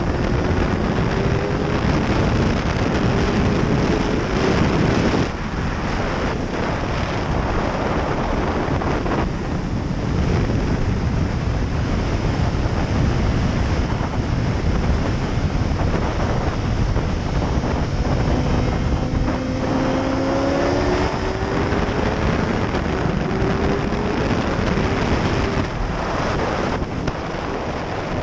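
Heavy wind rush on the microphone at track speed, with a 2017 BMW S1000RR's inline-four engine underneath, its pitch climbing under acceleration and falling back several times.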